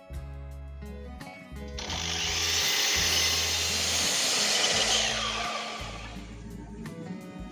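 A power tool working wood for about three seconds. It starts abruptly about two seconds in and fades out, over background guitar music.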